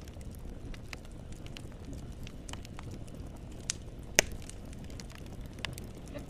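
Wood fire crackling, with scattered sharp pops over a steady low rumble; one loud pop stands out about four seconds in.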